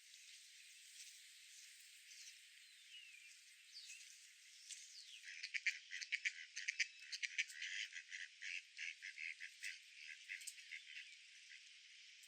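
A rapid run of short animal calls from about five seconds in until near the end, faint and thin with no low end, after a single descending call a few seconds in.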